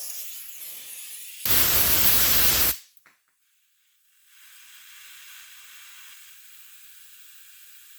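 A single burst of aerosol spray, starting about a second and a half in, lasting just over a second and cutting off sharply. A faint steady hiss follows near the end.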